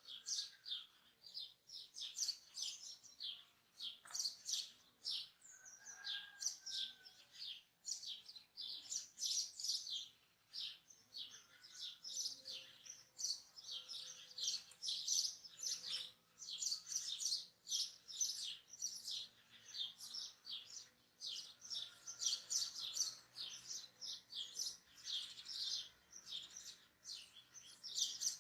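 A chorus of many small birds chirping and twittering together: a dense, unbroken stream of short high calls, with a few fainter, lower drawn-out calls beneath.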